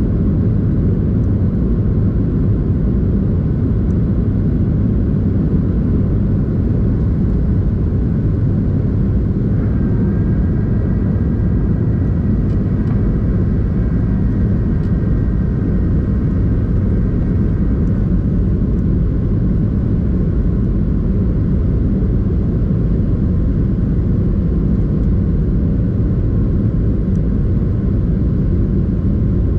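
Steady low rumble of a Boeing 737-800's cabin in flight, engine and airflow noise at an even level. Faint high steady tones join for several seconds around the middle.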